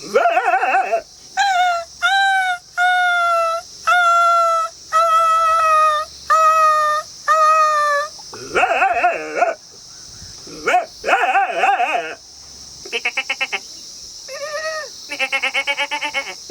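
A man imitating jackals with his voice: a run of about seven short, pitched yelping howls, each falling slightly, followed by longer wavering cries and, near the end, fast quavering calls.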